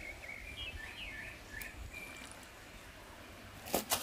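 Short bird chirps in the first couple of seconds over a faint outdoor background, followed by two sharp knocks near the end.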